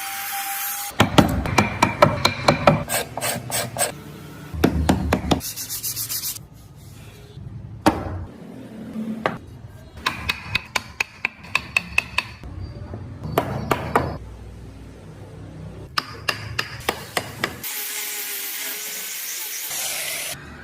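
Hand tools working a block of cypress wood, in short cuts: runs of rapid sharp taps alternate with scraping, rasping strokes on the wood. A steady hissing passage comes near the end.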